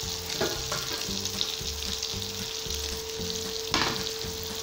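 Curry masala of onion, tomato and spice powders sizzling steadily as it fries in an aluminium kadai on a gas burner. A single metallic clank comes near the end as the steel lid is set down on the counter.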